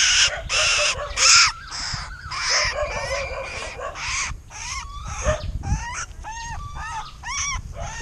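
Wounded Asian koel giving harsh, raspy distress screeches in quick succession for the first few seconds, followed by a run of quick arched, whistled call notes, a few each second.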